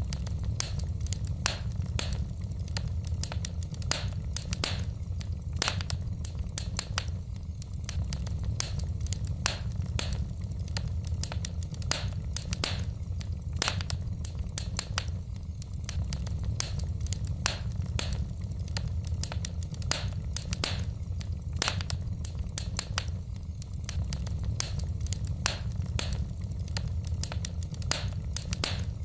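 Wood fire burning in a fireplace, crackling: irregular sharp pops and snaps of burning logs, several a second, over a low steady rumble of the flames.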